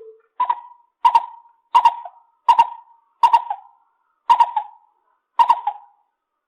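Lesser coucal calling a series of about eight hollow notes, evenly spaced roughly two-thirds of a second apart, each starting sharply and fading quickly.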